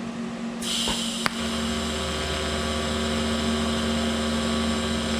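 TIG welding arc from a Vulcan OmniPro 220 striking about half a second in with a sudden hiss and a sharp click, then running as a steady electrical hum while a tack or bead is laid.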